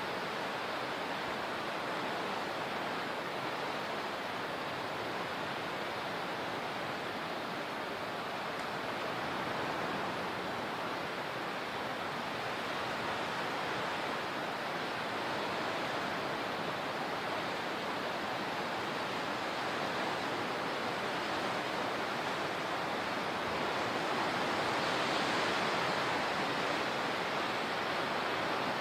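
Steady rush of moving water, swelling a little near the end.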